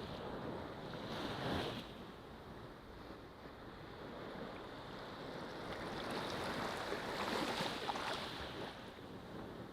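Ocean waves breaking and washing up a beach, one swell about a second and a half in and a longer one later on.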